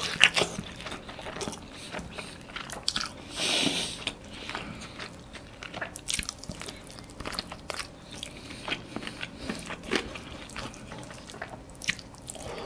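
Close-miked eating of a chicken drumstick and rice: biting meat off the bone, then chewing with frequent wet mouth clicks and smacks. One louder, longer burst comes about three and a half seconds in.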